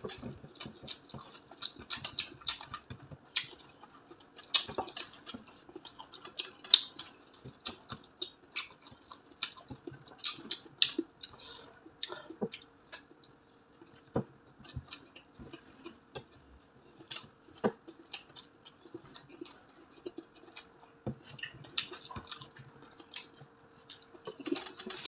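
Close-up eating of crispy fried pork belly (lechon kawali) by hand: a run of irregular crunching and chewing clicks and crackles as the crackling skin is torn and chewed.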